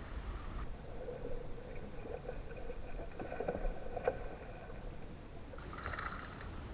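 Canoe on a river: low, even water and hull noise with a few light knocks a little past the middle.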